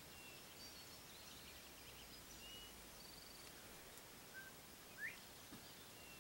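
Near silence with faint scattered bird calls over a steady hiss: short thin whistles, a brief trill, and a rising whistle about five seconds in, the loudest of them.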